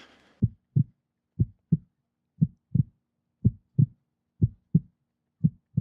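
A heartbeat sound effect: a steady lub-dub, six double beats about one a second, with dead silence between them.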